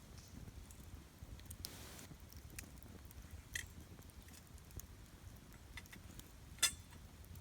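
Wood campfire crackling with scattered small pops, one louder sharp pop near the end, and a brief soft hiss about two seconds in.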